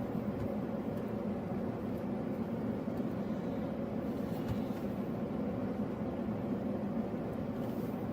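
Steady road and engine noise of a car driving, heard from inside the cabin on a dashcam microphone.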